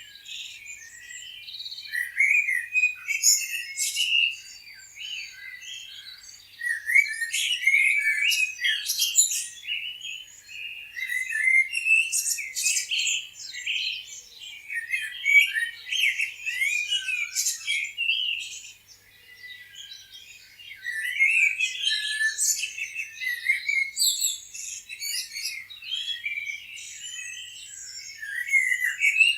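Several small birds chirping and twittering at once in a dense chorus of short, quick calls, coming in waves, with a brief lull about two-thirds of the way through.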